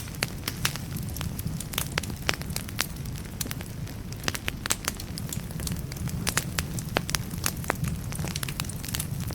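Wood fire burning in a fireplace: a steady low rumble of flame with frequent sharp, irregular crackles and pops from the burning logs.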